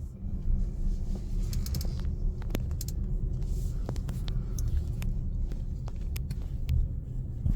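Low, steady rumble of a car idling, with scattered light clicks and taps.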